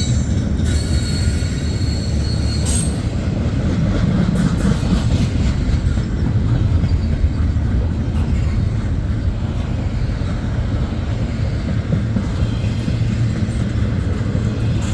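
Double-stack intermodal freight cars rolling steadily past with a loud, continuous rumble of wheels on rail. A thin, high wheel squeal rings out for a second or two about a second in.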